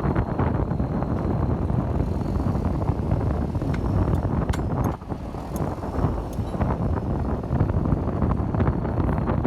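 Komatsu bulldozer working, its diesel engine and tracks making a dense, steady low noise, with scattered sharp clicks and a brief dip about five seconds in.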